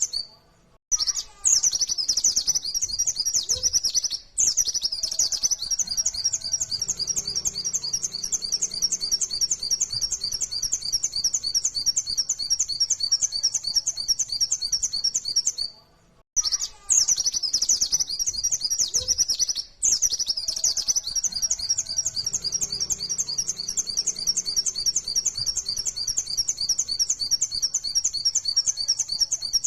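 Pleci (white-eye, Zosterops) singing a long, fast song of rapid repeated high chirps, in the full 'nembak' style. There are two near-identical bouts of about fifteen seconds each, separated by a short pause about halfway through.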